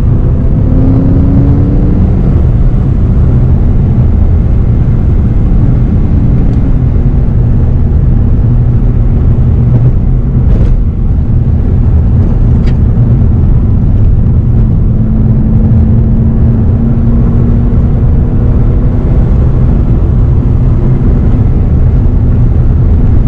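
BMW E92 M3's V8 with an Akrapovič exhaust, heard from inside the cabin while driving: a steady engine drone mixed with road noise, its pitch rising briefly about a second in. Two short clicks near the middle.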